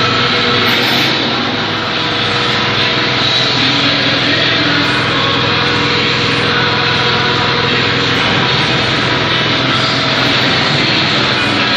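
Rectangular ventilation-duct production line running: a loud, steady machine drone with a few held tones in it.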